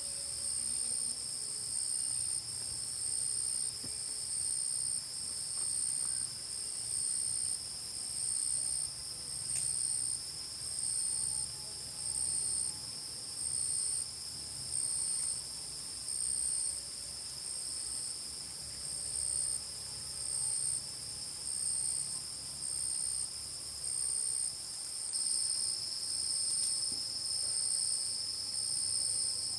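Crickets chirring at night in the forest: a high-pitched trill that pulses about once a second over a second, lower steady trill.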